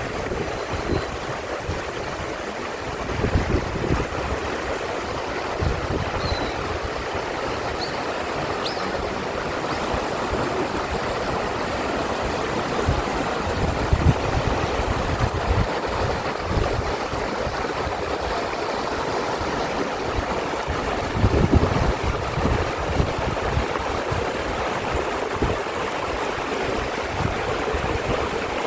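Mountain valley stream rushing steadily over rocks, with wind buffeting the microphone in low gusts now and then. A few faint high chirps come in the first several seconds.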